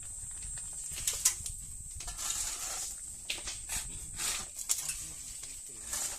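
Gravel and sand being loaded into a dump truck: irregular scraping and clattering of stones, over a steady high-pitched buzz and a low rumble.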